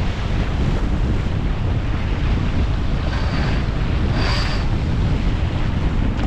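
Wind buffeting the microphone on a sailing yacht under way, with the rush of water along the hull; a brief louder hiss about four seconds in.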